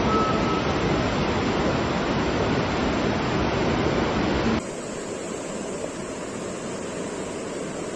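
Steady rushing of floodwater with no distinct events. Just past halfway it cuts suddenly to a quieter rush with a thin high tone.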